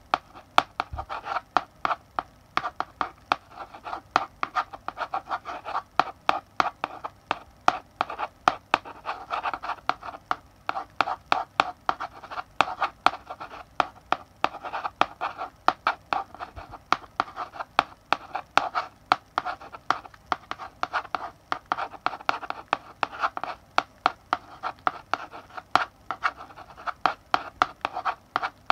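Chalk writing on a blackboard: scratchy strokes broken by an irregular run of sharp taps as the chalk strikes the board, a few a second without pause.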